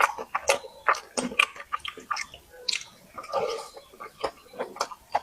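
Close-miked eating: a person chewing and biting food, with sharp crunchy clicks several times a second and wet smacks between them, and a longer wet sound a little past the middle.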